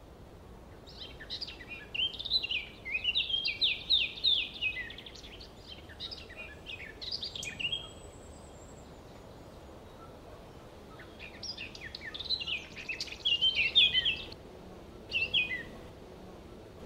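A songbird singing two long runs of rapid chirping phrases, the first from about a second in to about eight seconds, the second from about eleven to fifteen seconds, over a steady low background noise.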